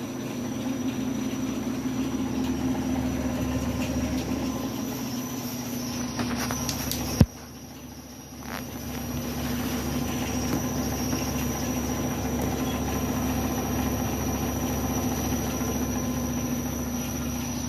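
Washing machine running with a steady high whistle over a constant hum. A sharp click comes about seven seconds in, and the running sound drops away briefly and then builds back up. The owner guesses the whistle comes from a belt.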